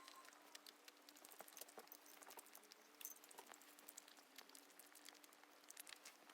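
A dog gnawing raw sweet potato: a faint, quick, irregular run of small crunches and clicks from its teeth on the hard flesh, over a faint steady hum.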